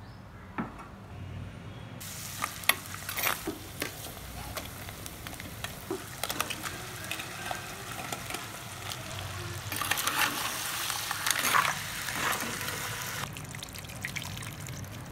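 Crab curry cooking in a clay pot on a gas stove: frying and simmering, with a few sharp clicks of pot and utensils about two to four seconds in and a louder stretch of sizzling and pouring liquid later on.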